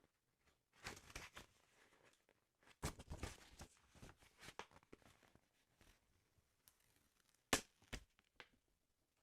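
Quiet paper handling on a football sticker album: soft rustling and crinkling about a second in and again around three seconds, then two sharp taps near the end.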